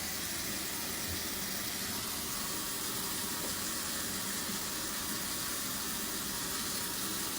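A steady, even hiss that holds unchanged throughout.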